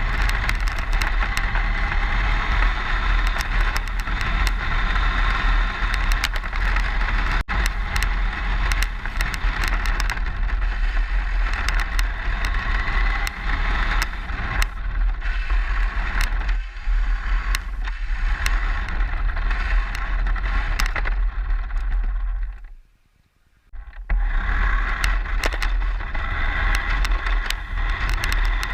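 Radio-controlled car driving, heard from a camera mounted on it: a steady rumble and rattle of the chassis over the ground, with many small clicks, cutting out briefly about 23 seconds in.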